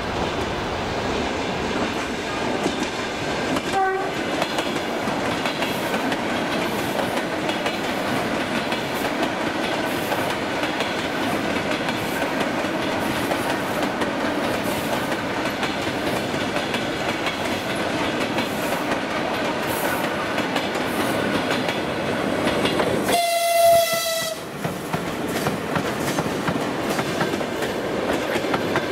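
ChS7 two-section DC electric locomotive hauling a passenger train, its running noise steady as it approaches, with a brief faint horn note about four seconds in. About 23 seconds in, a loud horn blast of under a second, several tones sounded together, then the carriages clatter past close by with clickety-clack over the rail joints.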